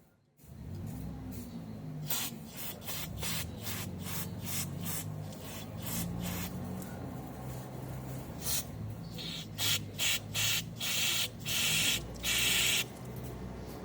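Aerosol parts cleaner sprayed into a fuel injector in many short hissing bursts, several a second, then a few longer bursts near the end, over a steady low hum.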